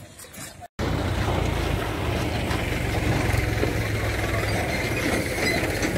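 A steady loud rumbling noise that starts abruptly after a cut less than a second in.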